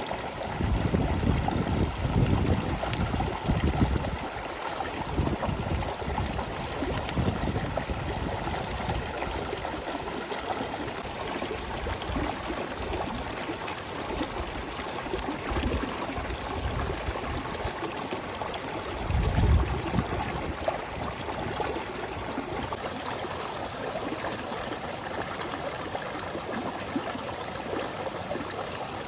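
River water flowing and trickling steadily, with a few low rumbles in the first few seconds and again about two-thirds of the way through.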